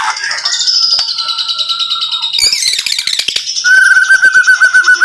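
Murai batu (white-rumped shama) singing: high, fast trills, then, about two-thirds of the way in, a loud rapid run of repeated notes, the 'tembakan' burst of its song.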